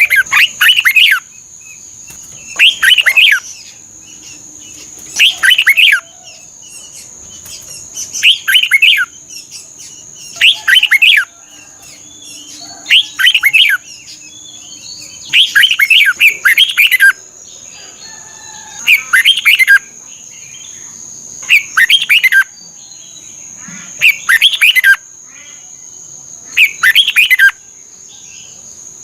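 Red-whiskered bulbul singing: short, loud, warbling whistled phrases repeated about every two to two and a half seconds, with a steady high hiss behind them.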